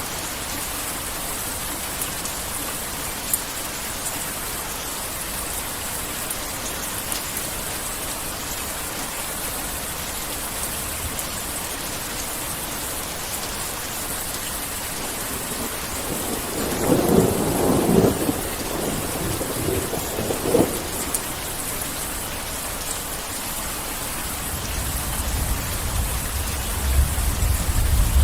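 Heavy rain falling steadily. A thunderclap comes a little past the middle, with a shorter one about three seconds later, and a low rumble of thunder builds near the end.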